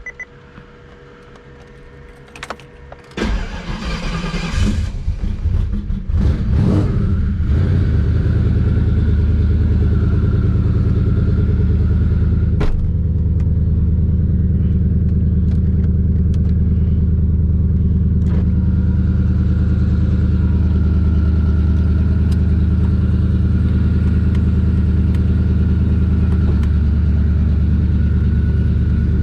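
Twin-turbo Terminator Cobra's 4.6-litre V8 cranking and firing up about three seconds in, surging once or twice, then settling into a steady idle.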